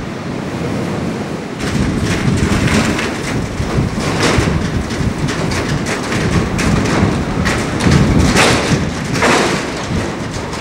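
Windstorm blowing through an abandoned building: a loud, continuous rush of wind that surges in gusts several times, with many short knocks mixed in.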